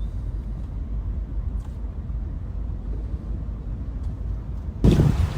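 Low, steady rumble of strong wind buffeting the microphone, with a sudden louder blast near the end.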